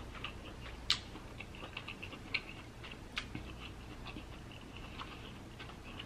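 Close-miked wet mouth clicks and smacks of someone chewing king crab meat: an irregular scatter of soft clicks, with a few sharper ones about a second in, near two and a half seconds and near three seconds.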